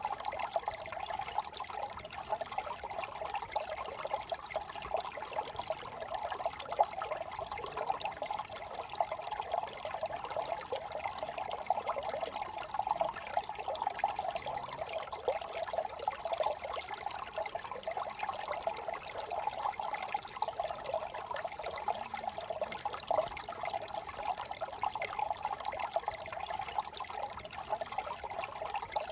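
Small brook trickling and burbling over stones, a steady babble of running water.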